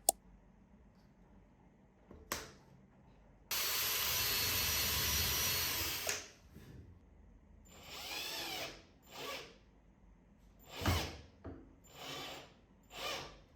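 Cordless drill-driver running in one steady burst of about two and a half seconds, then five shorter bursts, the first rising and falling in pitch, as it drives screws during assembly.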